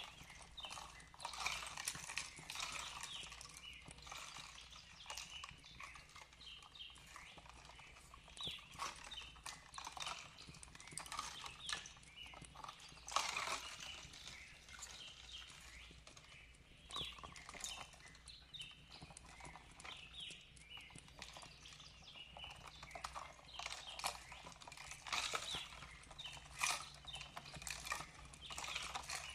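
Fireplace crackling with irregular pops and clicks, over a faint steady low hum, with soft bird chirps now and then.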